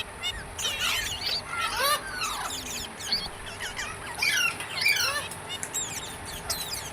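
Several pet parrots calling with many short squawks and chirps, each call quickly rising and falling in pitch, overlapping and scattered throughout.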